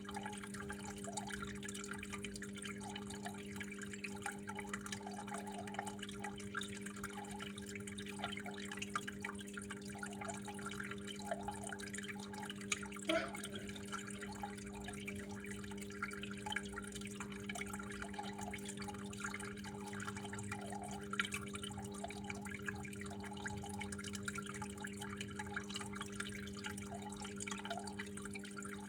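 Water trickling and dripping in irregular small plinks, with a few louder drops, over a steady low hum.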